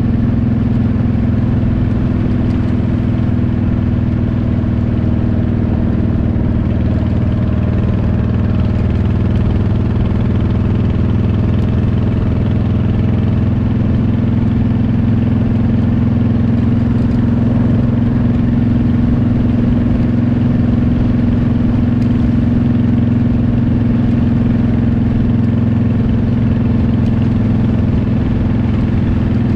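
Motorcycle engine running at a steady cruising speed, its pitch and loudness holding even throughout.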